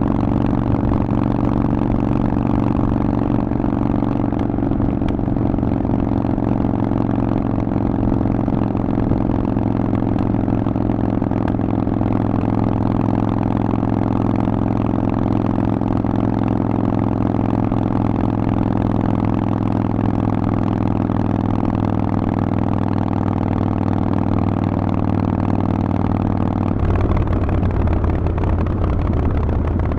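Harley-Davidson Forty-Eight's air-cooled 1200 V-twin running through a Vance & Hines aftermarket exhaust, holding a steady engine speed. The note changes abruptly near the end.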